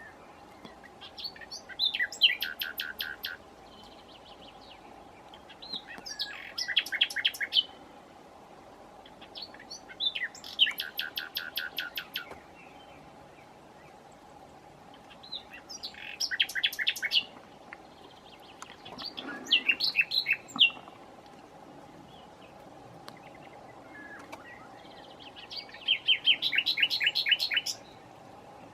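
Common nightingale (Luscinia megarhynchos) singing: six separate phrases of fast, repeated notes, each a couple of seconds long, with pauses of a few seconds between them. A faint steady hum runs underneath.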